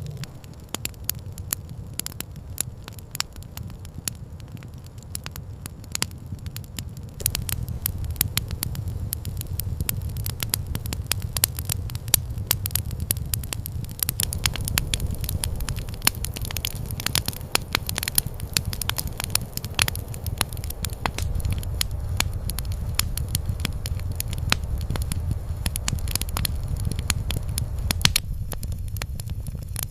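Campfire crackling: irregular sharp pops and snaps over a steady low rumble, growing louder and busier about seven seconds in.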